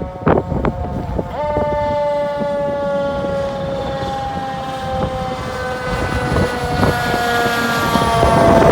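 Fire engine siren wailing on a single pitch that steps up about a second and a half in, then slowly sinks, over the rumble of the passing truck.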